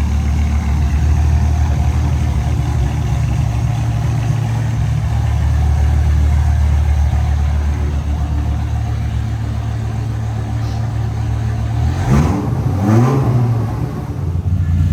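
1999 Dodge Viper RT/10's 8.0-litre V10 idling through stock headers and catalytic converters with a muffler delete. Near the end it is revved twice in quick succession, then drops back to idle.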